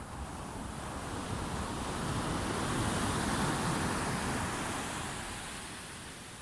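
Sea waves: one wave washes in, swelling to a peak in the middle, then draws back.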